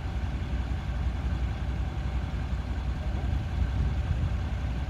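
Off-road 4x4's engine running steadily at low revs, a continuous low rumble.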